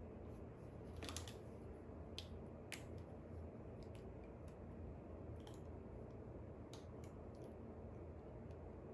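Sparse, irregular light clicks and taps of someone working at a desk, over a low steady hum.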